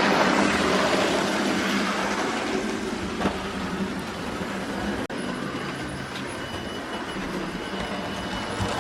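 Model train running on a layout: a steady motor hum and the rumble of wheels on the track, with a brief knock about three seconds in.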